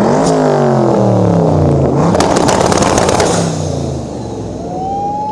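Sports car engine revved hard, its pitch falling away as the revs drop, with a burst of exhaust crackles about two seconds in and a second, shorter rev falling off after them.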